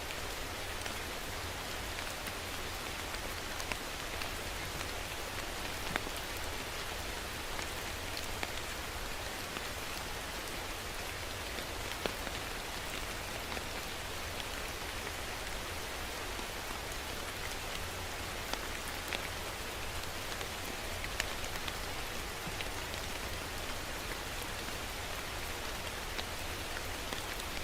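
Steady rain falling on a surface, an even hiss with scattered sharper drops ticking through it.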